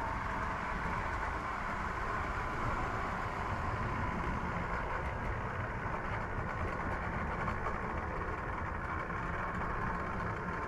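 Steady mechanical running noise with a low rumble and a hum in the middle register, easing slightly in the second half.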